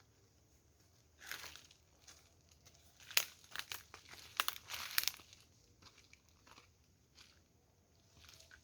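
Crinkling and crackling handling noises in short irregular spells: a brief burst about a second in, then a denser run of sharp crackles from about three to five seconds in.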